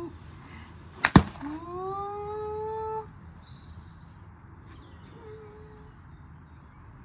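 Two sharp bangs, then the washing machine's motor whining up in pitch as it spins up, cutting off suddenly about three seconds in, as the machine loses power when its plug pulls out.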